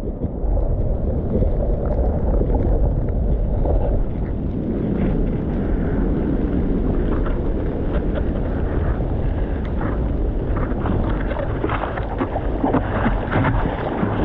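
Muffled rush of sea water and wind buffeting a camera in the surf, with choppy splashes in the second half.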